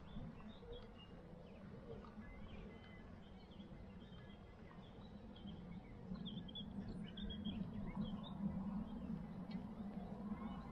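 Small birds chirping in short, scattered calls, busiest about six to eight seconds in, over a faint low hum.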